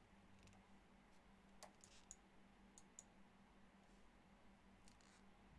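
Near silence with about five faint, short clicks from a computer mouse, irregularly spaced.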